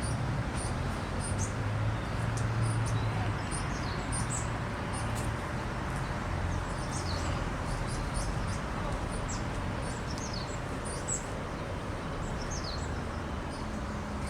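Small birds chirping repeatedly, many short high notes that slide down in pitch, over a steady low rumble of background noise.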